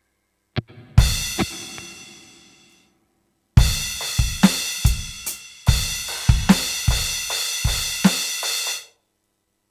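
Acoustic drum kit: a stick click, then a single crash cymbal hit left to ring out. After a short pause a beat of bass drum and snare under a wash of cymbals runs for about five seconds and stops abruptly.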